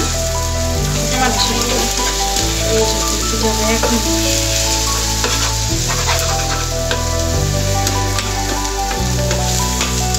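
Red amaranth leaves sizzling as they fry in a pan, with a spatula stirring and scraping through them. Background music with steady chords that change every second or two plays over it.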